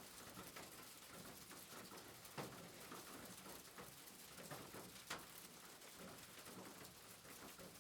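Faint rain pattering steadily, with a couple of sharper ticks about two and a half and five seconds in.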